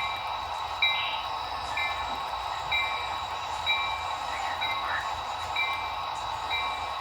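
Model diesel locomotive's sound decoder ringing its bell, a short ring about once a second, over the steady running hum of the train.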